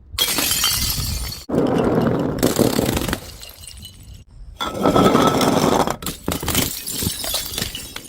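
Glass bottles smashing and shattering, with crunching and tinkling glass shards, in about four separate crashes that start and stop abruptly.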